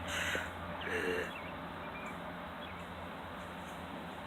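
A few faint, brief bird chirps over a steady low background hum, with a short breath and a brief murmur from the person in the first second or so.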